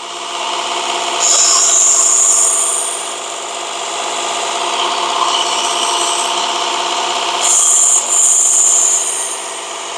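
Work Sharp Ken Onion belt sharpener's motor running with the abrasive belt turning, as a Damascus steel knife blade is drawn across the belt twice: a loud hissing grind about a second in and again near the end.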